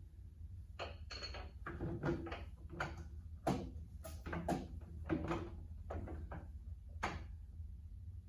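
A run of about a dozen short knocks and scrapes, like metal tools or parts being handled during repair work on a tractor, over a steady low hum.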